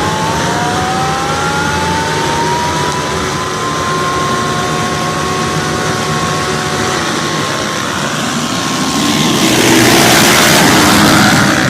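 Motocross motorcycle engine revving, its pitch rising over the first few seconds and then holding a steady high note. Near the end a louder rushing noise takes over for about two seconds.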